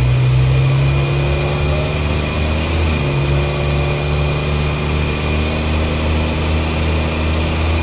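Engine sound effect: a large vehicle engine running steadily, a low even drone with a slight change in tone about three seconds in.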